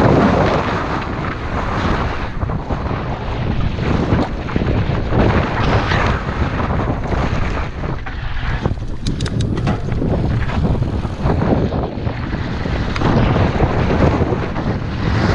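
Wind buffeting the microphone, with tyre and trail rumble from a mountain bike riding a dirt trail. The noise eases for a few seconds in the middle.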